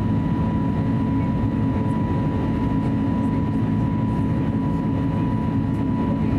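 Steady cabin noise inside an Airbus A320neo with CFM LEAP-1A engines running: an even low rumble with a thin, steady high whine on top, unchanging throughout.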